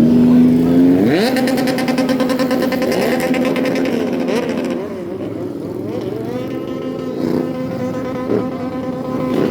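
Motor vehicle engines running loud: one revs up sharply about a second in and then holds a steady high pitch, while another engine's revs rise and fall in the middle.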